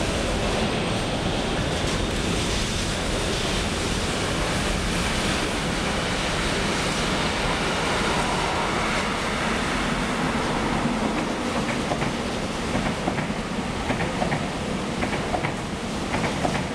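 A train rolling past on the track: a steady rumble and rush, with the wheels clicking over rail joints in a regular clickety-clack from about two-thirds of the way in.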